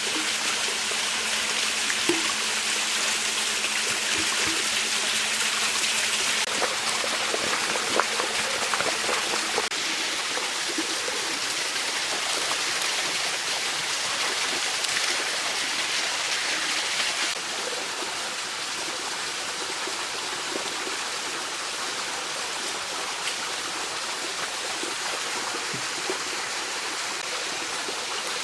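Mountain stream flowing and rushing steadily, a little quieter from about two-thirds of the way in.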